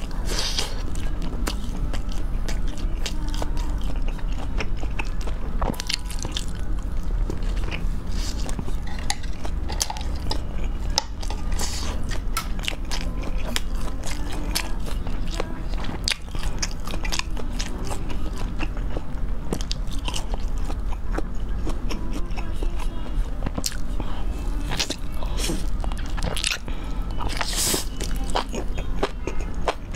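Close-miked eating: biting and chewing spicy grilled skewered food, including enoki mushrooms pulled off the stick, with many short crunches and clicks over a steady low hum.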